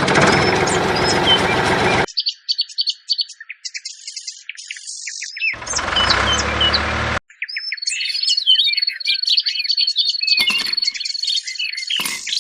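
Small birds chirping and twittering continuously. Twice they are overlaid by a dense rushing noise that starts and stops abruptly, lasting about two seconds at the start and again about five seconds in. Later a steady high trill runs for several seconds.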